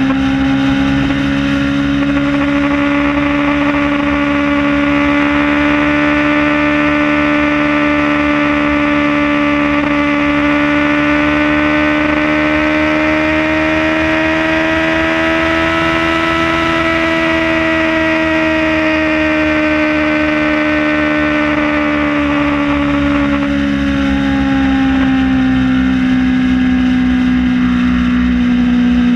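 Kawasaki Ninja ZX-6R inline-four engine running at a steady highway cruise, its pitch rising gently and then easing back down about two-thirds of the way through, with steady wind rush over it.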